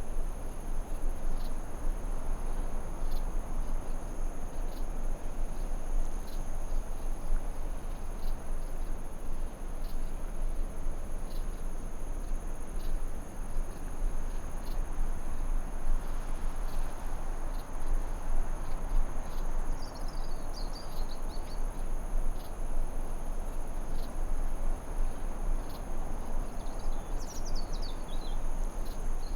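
Forest ambience: a steady rushing noise bed under a constant high, shrill insect drone like crickets. Short chirping bird calls come in about two-thirds of the way through and again near the end.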